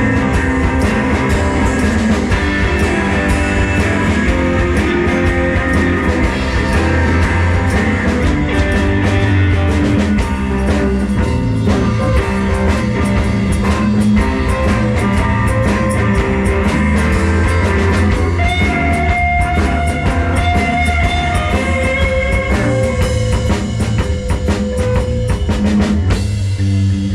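Live rock band playing an instrumental blues-rock passage: drum kit and electric guitar, with long held guitar notes in the second half.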